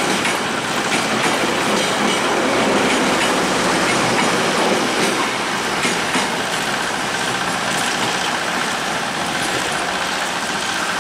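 Passenger carriages of a long locomotive-hauled intercity train rolling past over the junction's points, the wheels clacking over rail joints and switch frogs in irregular clicks over a steady rumble of wheels on rail.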